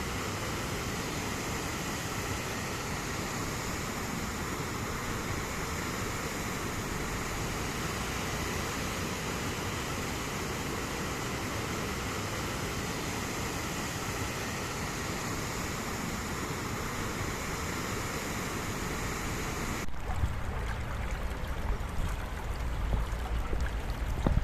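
Rushing river water over rocks, a steady, even hiss. About twenty seconds in it switches abruptly to a duller, deeper rumble with uneven low surges.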